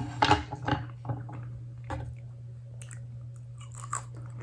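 A person chewing a mouthful of food, with wet, squishy mouth sounds loudest in the first second and then softer, scattered smacks. A steady low hum runs underneath.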